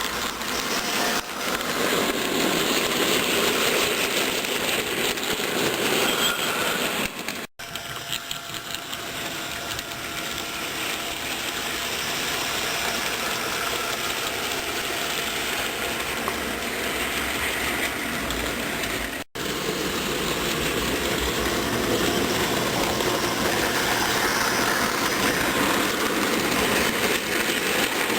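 HO-scale model train, a BB 67554 locomotive hauling covered wagons and refrigerator wagons, running on the layout with a steady mechanical running noise. The noise breaks off sharply twice, about seven and nineteen seconds in.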